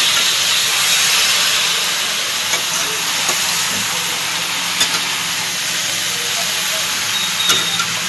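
Raw chicken pieces frying in hot oil and onion-masala paste in a steel kadhai: a steady sizzle, with a few light clinks of the spatula against the pan as it is stirred.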